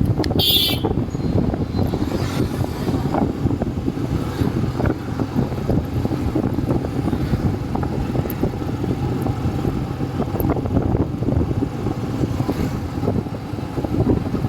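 Motorcycle riding through city traffic: a steady engine and road rumble, with a vehicle horn honking briefly about half a second in.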